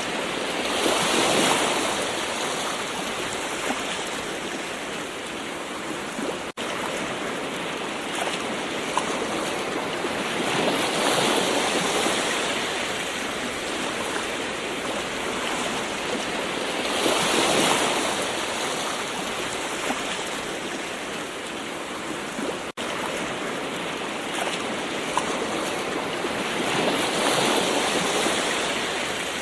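Gentle ocean waves washing onto a shore, a steady hiss of surf that swells as a wave comes in four times, roughly every six to ten seconds. There are two momentary breaks in the sound.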